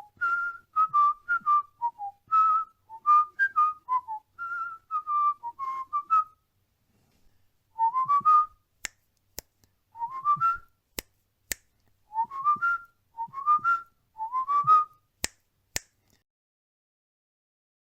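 Cockatiel whistling a tune: a quick run of short, clear whistled notes for about six seconds, then after a brief pause, groups of rising whistles, with a few sharp clicks between them.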